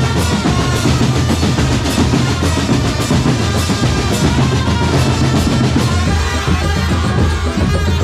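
A drum corps playing loud music, with bass drum beats about twice a second and snare rolls over a pitched melody. The drumming thins out near the end.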